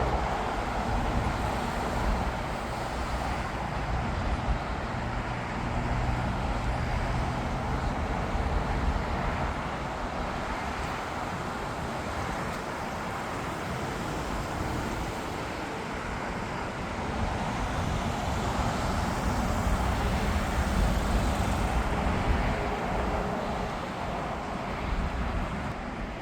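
Steady outdoor rumble of engines, road traffic mixed with distant jet aircraft, with no single loud pass.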